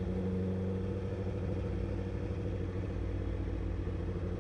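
Honda CBR1000RR's inline-four engine running at steady, low revs.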